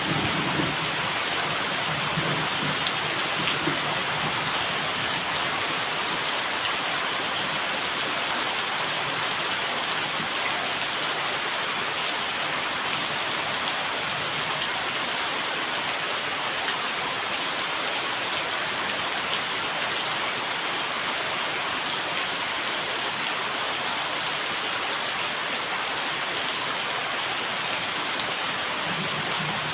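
Steady, heavy rain falling, an even hiss of drops on surfaces. A low rumble, like distant thunder, comes in the first few seconds and again near the end.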